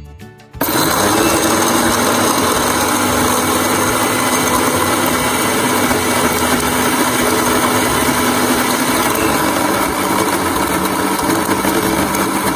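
Electric mixer grinder motor starting abruptly about half a second in and running at full speed, grinding ingredients in its jar. The whirring stays steady, with its hum shifting slightly lower about nine seconds in.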